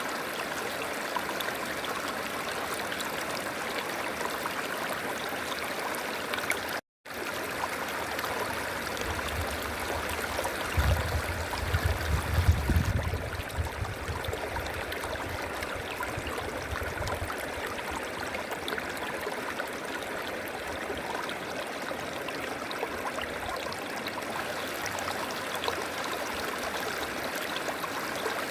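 A river flowing steadily. The sound cuts out for an instant about seven seconds in. A low rumble rises under the water from about nine seconds, is loudest around twelve seconds and fades by about seventeen.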